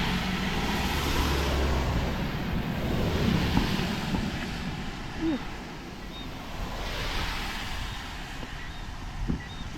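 Wind buffeting the microphone while vehicles pass on a rain-wet road, the tyre noise swelling and fading a few times.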